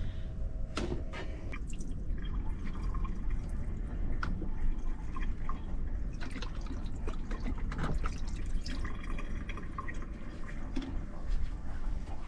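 Dishes being washed by hand in a small sink: water trickling and dripping, with light clicks and clinks of dishes, over a steady low rumble.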